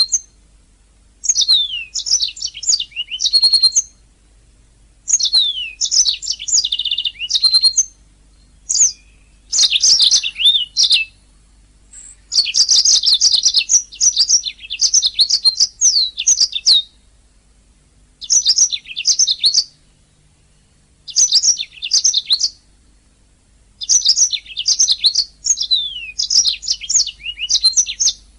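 Domestic canary singing: bursts of rapid high chirps, downward-sweeping notes and trills a second or several long, with short pauses between them.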